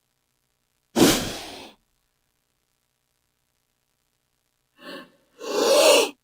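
King cobra hissing in three breathy bursts. The first starts sharply about a second in and fades over most of a second. A short hiss and then a longer, louder one follow near the end.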